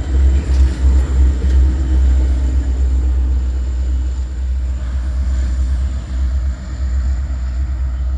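Loaded coal hopper cars of a long freight train rolling past, a steady low rumble.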